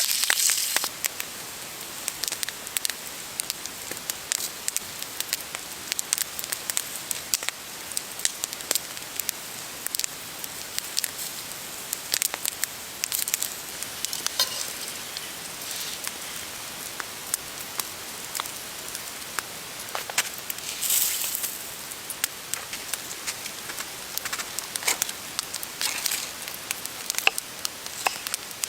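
Campfire crackling, with irregular sharp pops over a steady hiss. A short burst of louder hissing comes about twenty seconds in.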